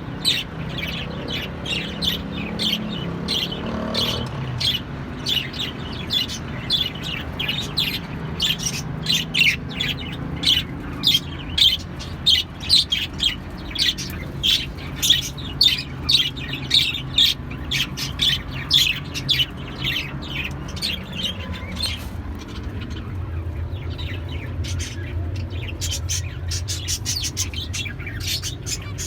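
Pet birds chirping and squawking in quick short calls, several a second, thinning out in the last several seconds. A steady low hum runs underneath.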